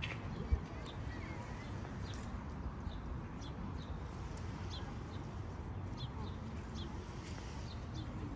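Birds chirping in the trees: short, high chirps scattered throughout, over a steady low rumble, with a single dull thump about half a second in.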